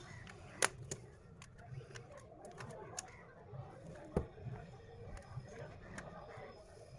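Small sharp clicks and taps from hands handling a smartphone and small tools on a workbench. Two louder clicks, one about half a second in and one about four seconds in, come among fainter ticks.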